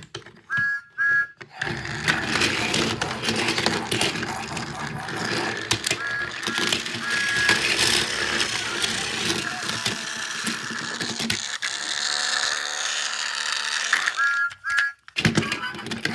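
Small electric motor and plastic gearbox of a battery-powered Thomas toy train running steadily in a whir, with a gear that the owner thinks is skipping. There are short high beeps near the start and near the end.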